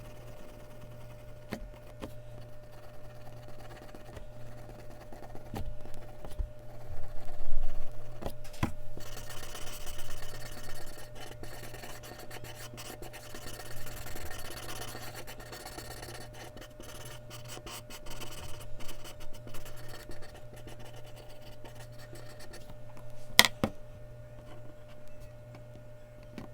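Mechanical pencil scratching on Bristol paper in short strokes, with a denser stretch of rapid scratching in the middle and a few light taps, the sharpest near the end, over a steady low hum.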